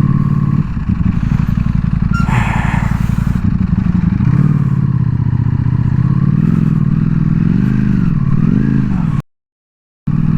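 Ducati Panigale V4S's V4 engine running at low revs, its pitch rising and falling in several gentle throttle blips in the second half. The sound cuts out completely for about a second near the end.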